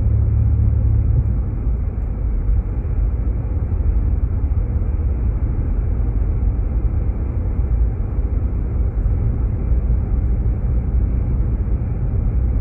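Jeep Grand Cherokee driving on a snow-covered road, heard inside the cabin as a steady low rumble of engine and tyres.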